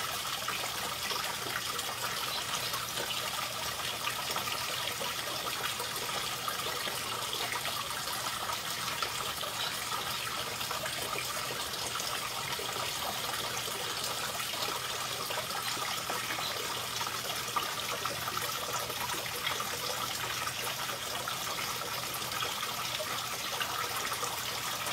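Steady, unbroken sound of running water.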